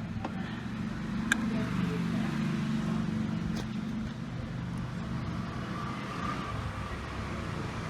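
A steady low engine hum, like a motor vehicle running, with two faint clicks about a second and a half and three and a half seconds in.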